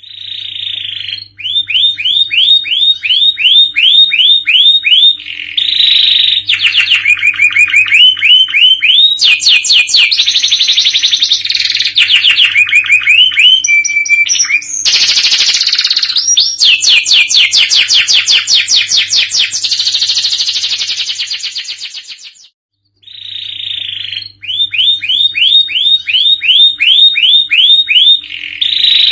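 Domestic canary singing a long, loud song of rapid trills: runs of quickly repeated rising notes, several a second, switching from one phrase to the next. The song breaks off briefly about twenty-two seconds in, then starts again, over a faint steady low hum.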